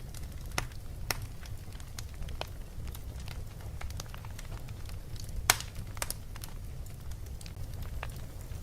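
Crackling fire: irregular sharp pops and snaps over a steady low rumble. The loudest pop comes about five and a half seconds in.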